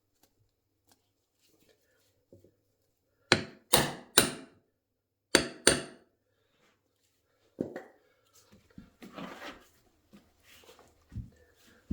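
Hammer blows on metal: five sharp, ringing strikes, three quickly then two more a second later, followed by lighter knocks and clinks of tools.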